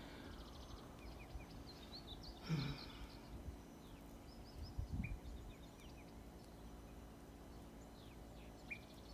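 Faint outdoor ambience with small birds giving short high chirps on and off. There is a soft rustle about two and a half seconds in and a low thump about five seconds in.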